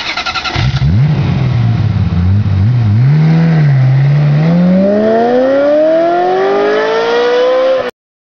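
Loud car engine revving, its pitch wavering low for a few seconds and then rising steadily as it accelerates, cutting off suddenly near the end.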